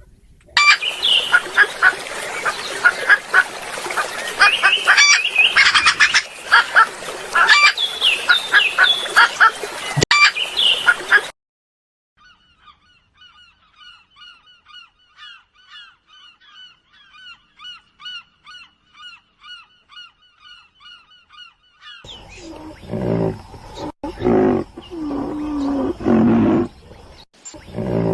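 A flock of waterfowl honking loudly in a dense chorus. After about eleven seconds it cuts to a faint, even series of chirps, about four a second. Near the end come louder, low-pitched animal calls.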